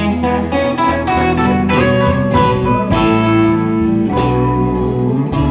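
Live rock band playing a slow ballad, with an electric guitar playing a melodic line over bass and drums.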